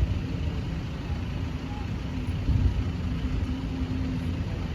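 Road traffic at a level crossing: a steady low rumble of car engines running and idling.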